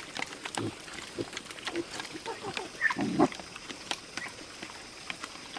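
Pigs grunting, the loudest grunt about three seconds in, among many scattered small clicks and knocks.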